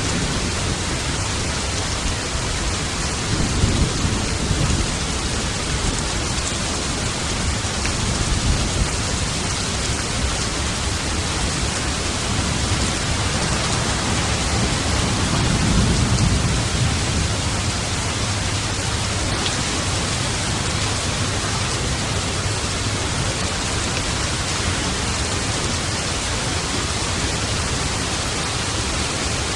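Steady heavy rain, a dense even hiss, with low rolling thunder rumbling up three times, the loudest rumble about halfway through.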